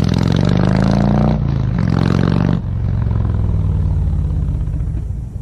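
A motor vehicle's engine running close by, its pitch dipping and rising as the revs change. At about two and a half seconds it drops to a steadier, lower run that fades near the end.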